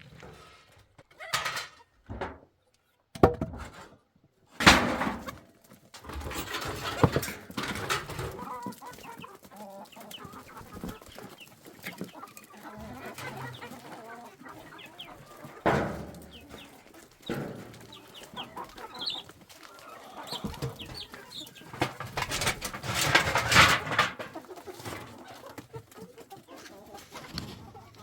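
Chickens clucking, with several sharp knocks a few seconds in and bursts of rustling or clattering noise later on.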